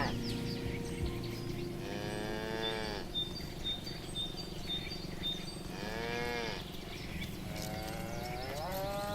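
Cattle mooing: three separate drawn-out moos, about a second each, the last rising in pitch at its end.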